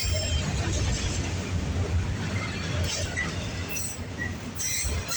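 Loaded auto rack freight train rolling past: a steady low rumble of the rail cars' wheels on the track, with a few brief faint high squeaks.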